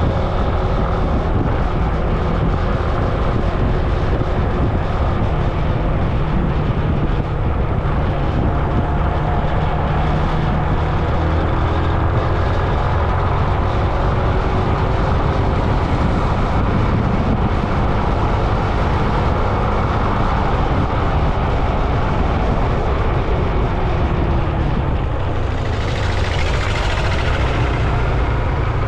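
Steady road noise heard from a moving vehicle: a loud low rumble of wind and tyres under a droning engine. Near the end a hiss swells and fades as another vehicle passes.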